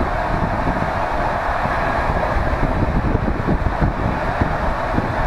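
Moving passenger train heard from inside the carriage: a steady rumble of wheels on the rails with a rush of air.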